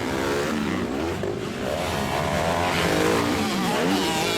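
Several 250cc motocross bikes' engines racing around a dirt track, revving up and down with overlapping rising and falling pitches.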